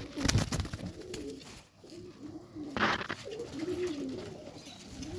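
Serbian highflyer pigeons cooing in the loft, a run of low, wavering coos one after another. A short noisy burst breaks in about three seconds in.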